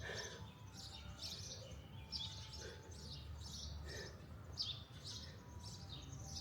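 Wild birds chirping: short, high, falling calls repeated about twice a second, over a low background rumble.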